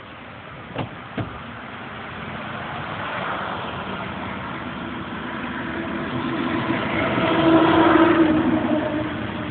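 Car hydraulic suspension pump running after two switch clicks about a second in: a steady motor whine that builds in loudness, loudest near the end, as it raises the back of the car.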